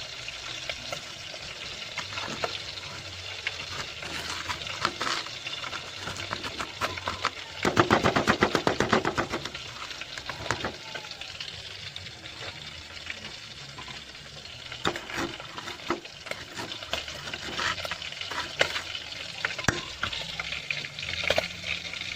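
Twisted shakoy dough deep-frying in hot oil: a steady sizzle with scattered crackles and clicks. About eight seconds in comes a loud run of rapid clicking lasting about two seconds.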